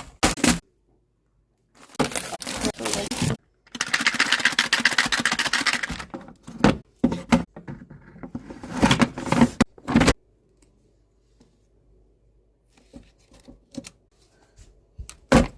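Snack packets and containers being handled and dropped into a drawer: wrapper crinkling and light plastic clatter in short bursts, with abrupt cuts between them. The longest, busiest rustle comes about four seconds in, and only faint ticks follow near the end.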